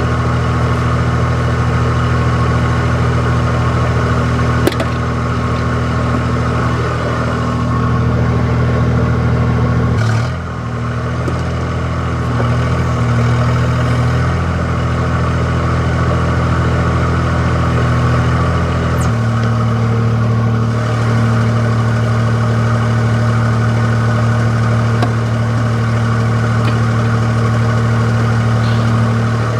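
Wacker Neuson 2203 mini digger's diesel engine running steadily. Its note shifts about a third of the way in and again past halfway, as the load from the hydraulics changes. There is a single sharp click early on.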